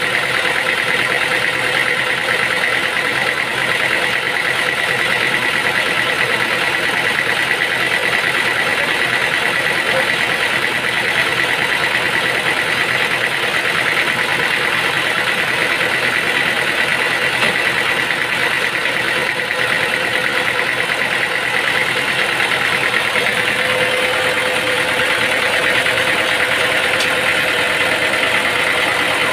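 Sawmill machinery running steadily, a constant mechanical drone with a high whine.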